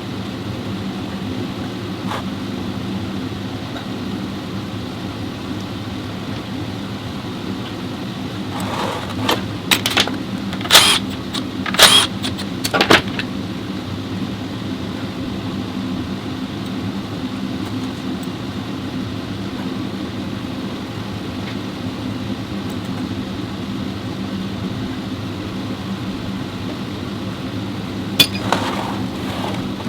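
Steady low machine hum, with a cluster of sharp knocks about a third of the way in and two more knocks near the end.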